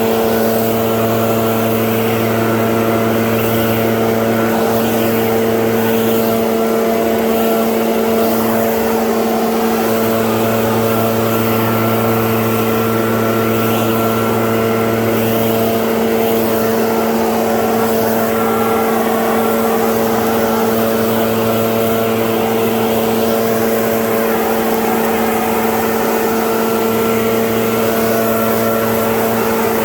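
Stand-on zero-turn lawn mower engine running steadily at a constant speed, a loud even drone with a fixed pitch.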